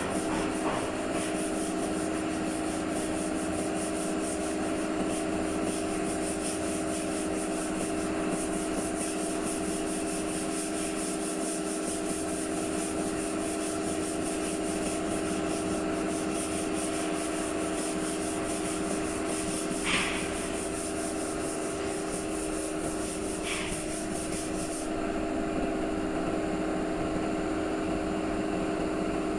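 Sanding on a van's door-panel bodywork, a steady scratchy rasp over a constant machine hum. The rasp stops near the end while the hum goes on, and two short higher squeaks stand out a few seconds before it stops.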